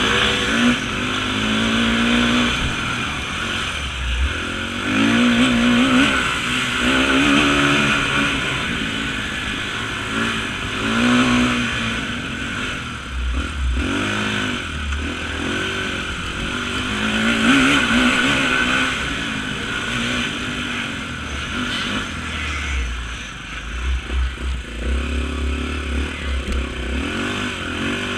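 Off-road motorcycle engine revving up and down over and over as the bike is ridden hard through a cross-country race course, the pitch rising and dropping every second or two.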